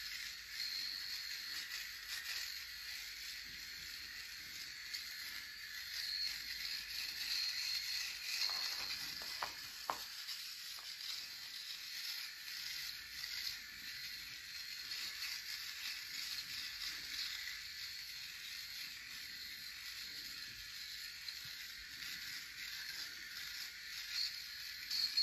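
Electric razor running as a man shaves his stubble: a steady, fairly high buzzing hiss with a light crackle that lasts throughout.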